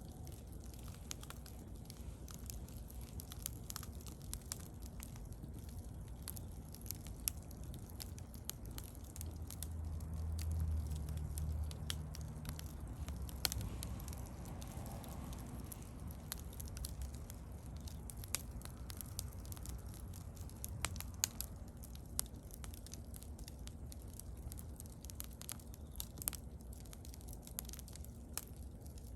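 Wood bonfire burning, crackling steadily with scattered sharp pops over a low rumble of the flames. The rumble swells for a couple of seconds about ten seconds in.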